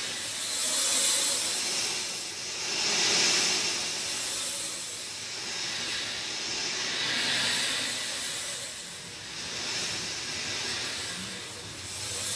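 Steady rain with an even hiss that swells and eases every few seconds.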